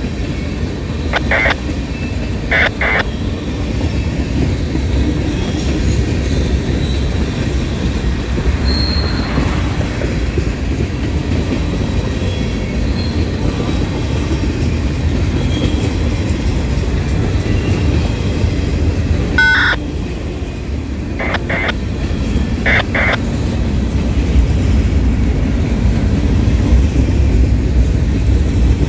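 Freight train cars rolling past close by: a steady low rumble of wheels on rail. Short high-pitched wheel squeals cut in twice near the start and a few times about two-thirds through.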